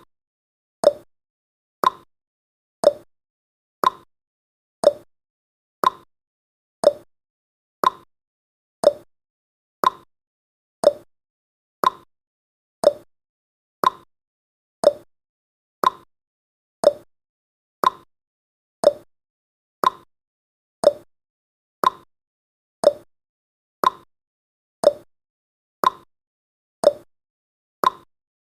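Countdown timer's tick sound effect: one short, quickly fading tick every second, evenly spaced.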